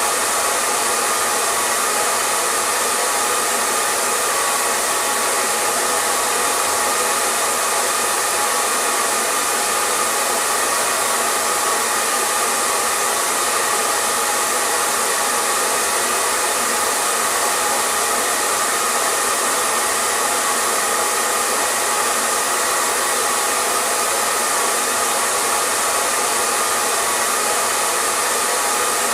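Hair dryer running steadily: an even rushing of blown air over the hum of its motor, with a faint steady whine near its middle pitch and no change in speed.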